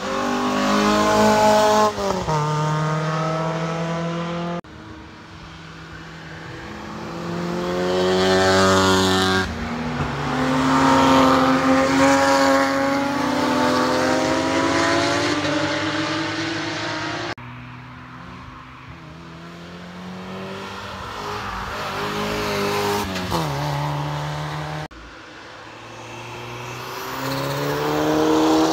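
Sports cars driving past one after another, engines rising in pitch as they accelerate. The sound cuts abruptly from one car to the next four times.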